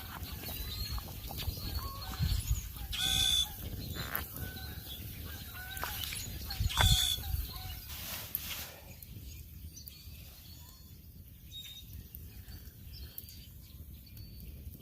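Wild birds calling, with small chirps throughout and two louder, harsher calls about three and seven seconds in, over a low rumble.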